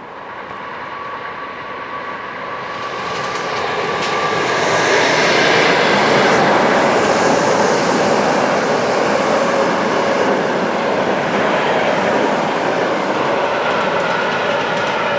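EP2K electric locomotive hauling a double-decker passenger train past, its noise growing louder over the first five seconds and then holding steady as the train goes by.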